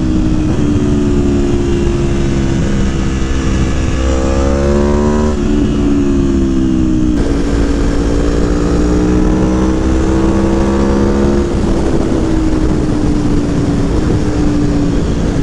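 Aprilia Tuono V4 Factory's V4 engine, fitted with a stage 3 airbox intake kit, pulling under load: the revs climb about four seconds in, step at a gear change, climb again until about eleven seconds in, then settle and ease off.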